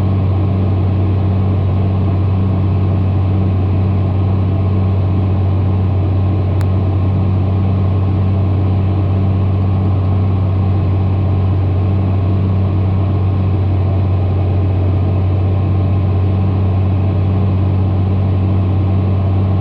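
John Deere tractor engine running at a steady speed, a constant low drone with no change in pitch.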